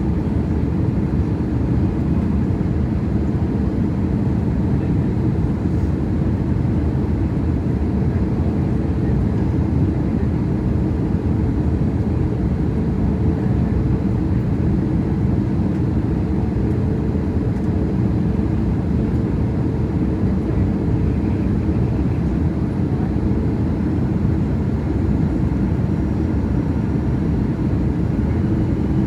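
Steady low rumble inside the cabin of an Airbus A321-211, from its CFM56 engines and the airframe, with no change in pitch or level.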